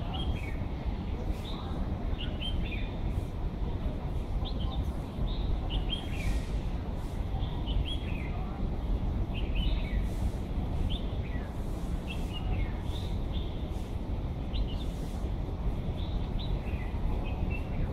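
Small birds chirping over and over, short quick falling chirps repeated throughout, over a steady low background rumble.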